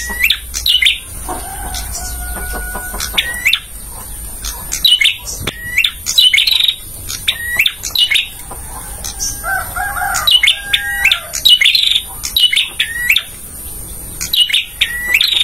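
Male prenjak (a prinia) singing loud, rapid bursts of sharp high chirps, repeated in several clusters. Lower, steadier whistled notes come in twice, about a second in and again around the middle.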